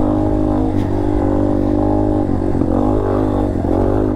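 Dirt bike engine running at a steady pitch, with a few small dips and rises in pitch between about two and four seconds in as the throttle changes.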